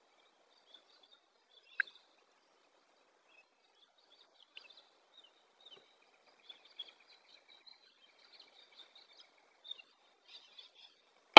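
Faint birds chirping with a low hiss of open-air background, broken by a few short, sharp sounds, the loudest about two seconds in.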